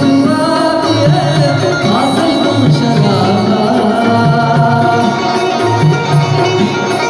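A Balochi song: a singing voice over a steady, repeating drum rhythm with string instruments.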